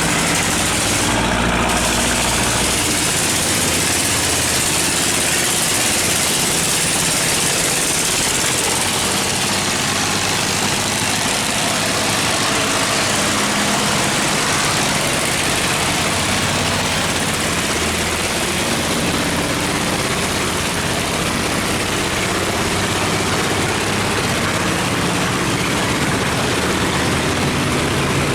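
Heavy boat and barge engines running steadily under a loud, even rush of water surging through the open sluice gate.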